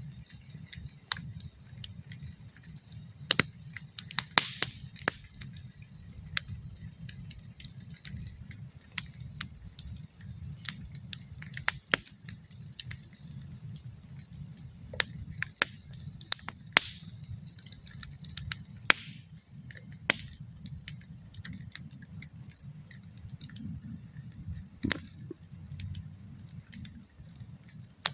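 Campfire crackling: burning wood gives irregular sharp pops and snaps over a low steady rumble.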